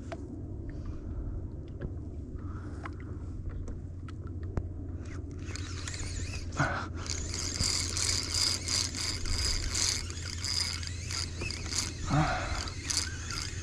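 Spinning fishing reel being cranked to bring in a hooked fish, a fast whirring ticking that starts about five seconds in and keeps going, over a steady low hum.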